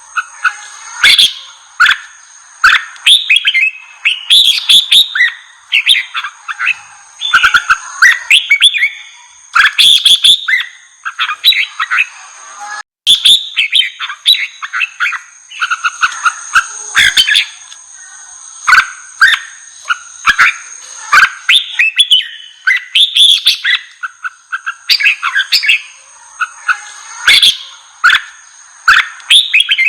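Red-whiskered bulbul song: quick, loud, chirping phrases repeated almost without pause. A thin, steady high-pitched tone runs beneath it, and the sound cuts out for an instant about halfway through.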